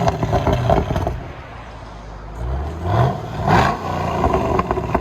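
Chevy SS 6.2-litre V8 through a dual exhaust with the mid resonator deleted and factory mufflers, free-revving in short blips. Two quick rising revs come about two and a half and three and a half seconds in. Crackling pops come as the revs fall, at the start and again near the end.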